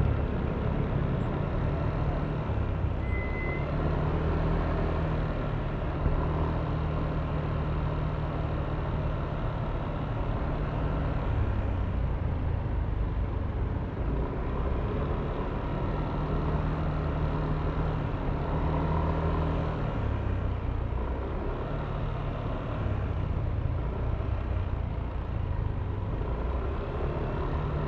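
Yamaha Aerox V3 scooter's single-cylinder 155 cc engine running under way, its low note shifting every few seconds as the throttle changes, over steady wind and road noise.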